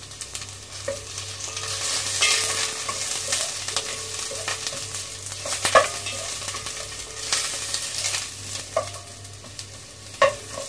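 Sliced ginger and onion sizzling in hot oil in a stainless steel pot as they are sautéed, with a few sharp clicks against the pot.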